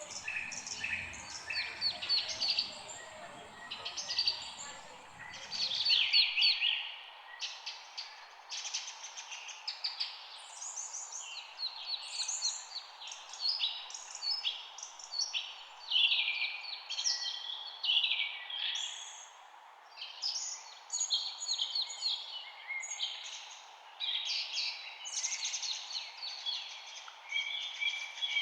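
Several songbirds chirping and trilling at once in quick, overlapping phrases, over a steady faint hiss. A low rumble sits under the first six seconds and cuts off suddenly.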